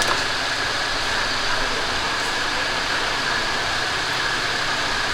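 Steady machine noise, an even hiss with a constant high whine running through it.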